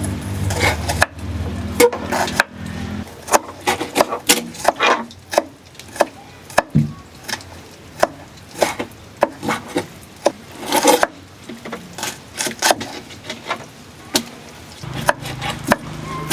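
Irregular knocks and scraping on wood, a few to several strokes a second. A low steady hum sounds for the first couple of seconds and again near the end.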